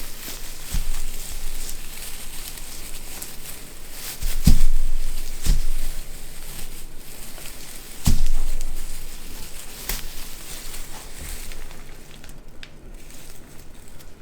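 Crinkling and rustling of a ribbon garland being handled and cut on a wreath, with a few sharp knocks, the loudest about four and eight seconds in.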